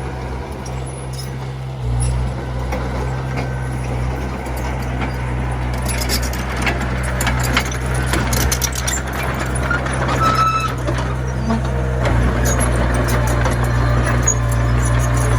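Komatsu mini bulldozer's diesel engine running steadily, its note picking up about two seconds in and again near the end, with scattered metallic clanks in the middle and a brief squeal just after.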